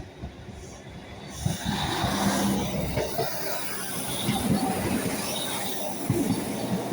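Northern Class 156 diesel multiple unit running in, its diesel engine drone and wheel-on-rail rumble building after about a second and a half, with a few knocks along the way.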